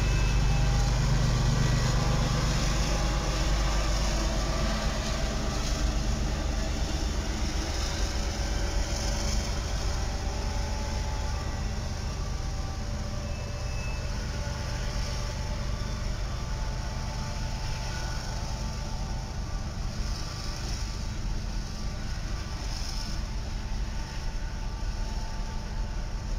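Norfolk Southern freight train passing close by: several diesel-electric locomotives running, their low engine drone strongest in the first few seconds, then the steady rumble of freight cars rolling past.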